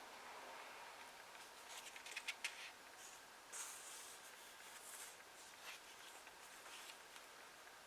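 Paper pages being turned and handled, giving soft, brief rustles and crinkles. A cluster of crackles about two seconds in is the loudest.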